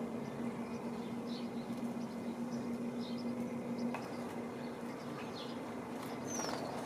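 Faint, short, high chirps of small birds at a feeder, over a steady low hum that stops about four seconds in.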